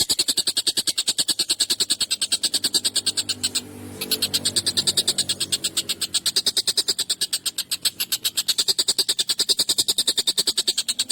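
Tengkek buto kingfisher calling a fast, unbroken run of harsh chattering notes, many a second. The run pauses briefly about three and a half seconds in.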